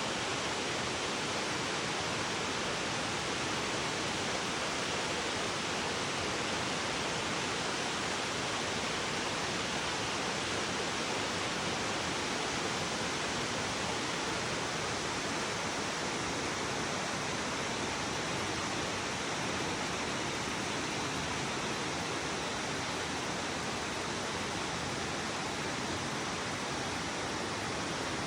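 Steady, unbroken rush of falling or fast-flowing water, like a waterfall or rapids.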